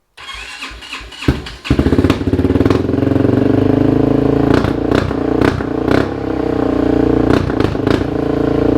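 Kawasaki Brute Force ATV's V-twin engine cold-starting through a custom exhaust with an aftermarket carbon-fibre muffler: a second and a half of cranking, then it catches and runs loud and steady, with sharp pops every so often.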